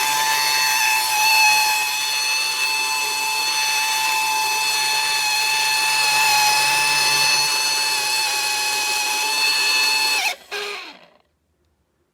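Cordless handheld vacuum cleaner's small motor running with a steady high whine, then switched off about ten seconds in, its pitch falling as it winds down within a second.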